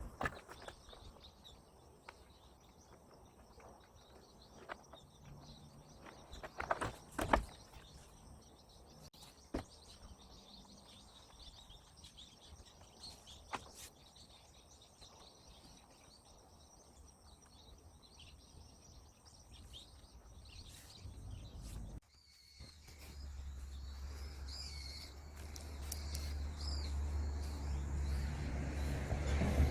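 Outdoor background with birds chirping and a few scattered knocks. After a sudden break about 22 s in, a low rumble joins and the birds are clearer.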